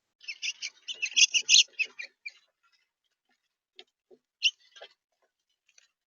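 Small bird chirping: a quick run of high chirps, then a few scattered single chirps about two seconds later.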